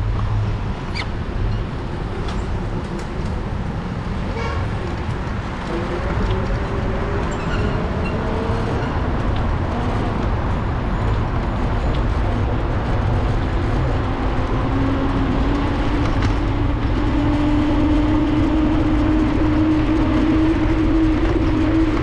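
Street traffic heard from a moving bicycle: constant low rumble of wind and road noise on a GoPro microphone, with vehicle engines passing. Over the second half a droning vehicle tone rises slowly in pitch.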